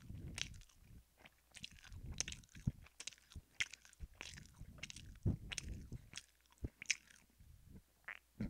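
A person chewing food right at a close microphone, with irregular mouth clicks and smacks.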